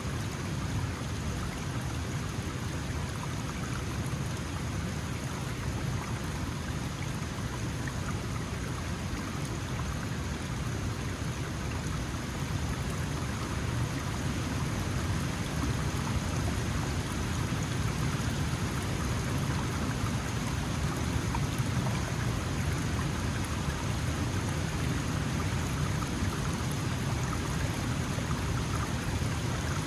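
Small mountain stream flowing: a steady, unbroken rush of water.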